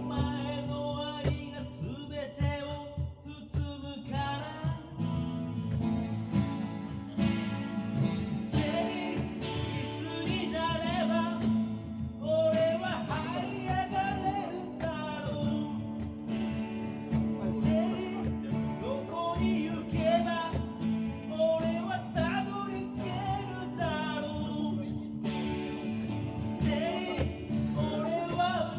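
A man singing a Japanese ballad while strumming a Yamaha FS-TA TransAcoustic acoustic guitar, with a cajon keeping a steady beat.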